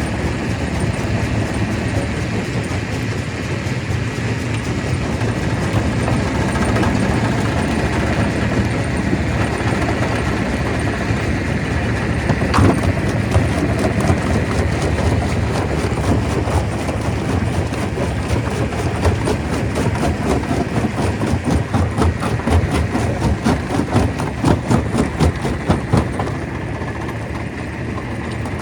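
Stone crusher running, a heavy steady drone with hard knocks of rock being broken. There is a sharp crack about twelve seconds in, and the knocks come thick and fast for several seconds past the middle.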